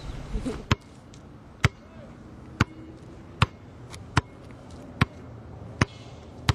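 A steady series of sharp knocks, a little more than one a second, each short and sudden, over a quiet background.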